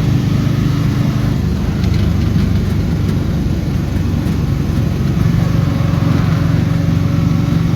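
Motor vehicle engine running with a steady low hum, its note shifting slightly about five seconds in.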